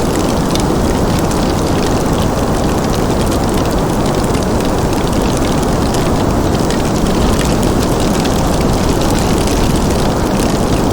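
Wood fire crackling, with many small, quick snaps over a steady, dense low rush of noise.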